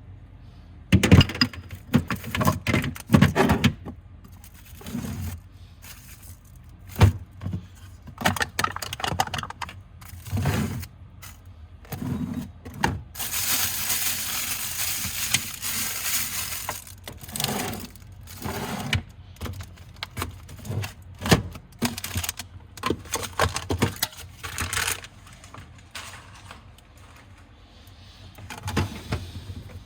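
Food packages and containers being handled and set down in a fridge, giving an irregular string of clacks and knocks. A steady hiss of rustling runs for about four seconds near the middle.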